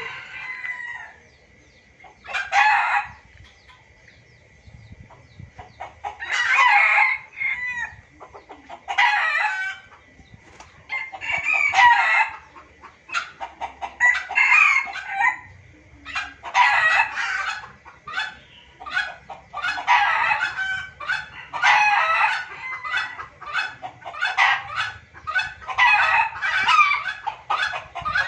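Junglefowl lure recording: a bird calling in short, loud bursts every two seconds or so, coming more often in the second half, with small clicks between calls.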